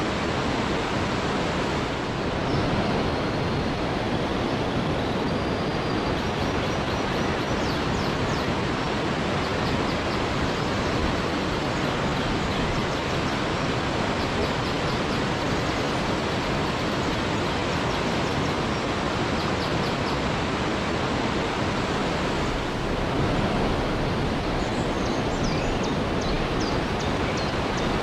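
Waterfall pouring steadily, a constant dense rush of falling water. Faint, short high chirps come through it in two stretches, around a quarter of the way in and again near the end.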